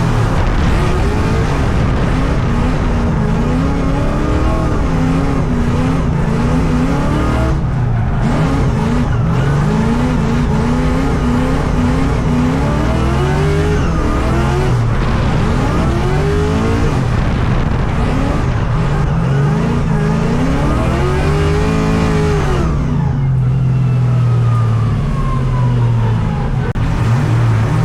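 LS V8 engine in a BMW E82 drift car, revved hard and let off again and again through a lap, with tire noise underneath. The biggest rev comes about 22 seconds in.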